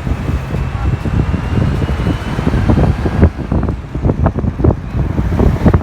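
Wind buffeting the microphone in irregular gusty thumps over the low rumble of a moving vehicle.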